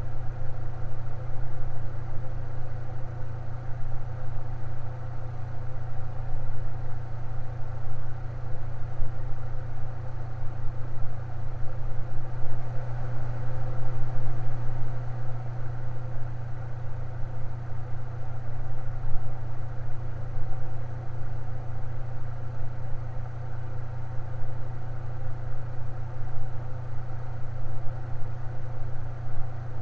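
Electric fan running with a steady low hum, swelling slightly for a few seconds near the middle.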